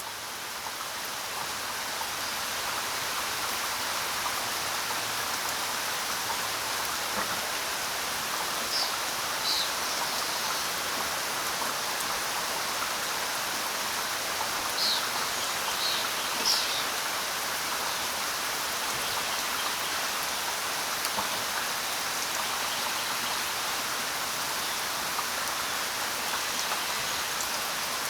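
Steady rainfall, a dense even hiss that fades in over the first couple of seconds. A few brief high-pitched sounds come through it about ten and fifteen seconds in.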